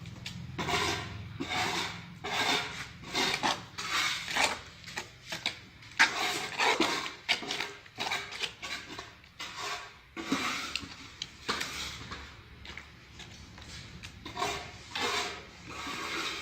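Repeated, irregular scraping and rubbing strokes of a hand tool on tile or mortar, about one or two a second, typical of tile-setting work.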